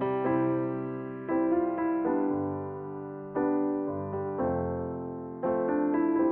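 Slow, soft piano music without speech: sustained chords, each struck and left to fade, with a new chord every second or two.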